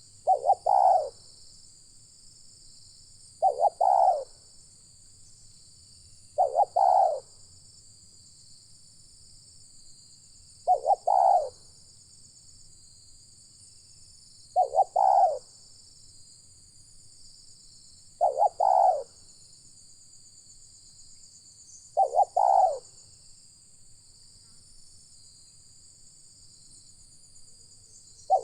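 Spotted dove (tekukur) cooing: eight short, loud phrases of two or three quick notes each, repeated every three to four seconds, with a longer pause before the last. A steady high insect drone runs underneath.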